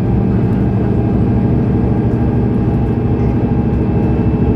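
Diesel engine of a Mercedes-Benz O530 Citaro Facelift Ü city bus running at a steady pitch under way, with a deep low rumble.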